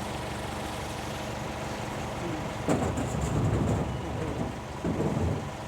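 Truck engine running steadily, heard from the cargo bed. A sudden clank or rattle comes about three seconds in, followed by people's voices.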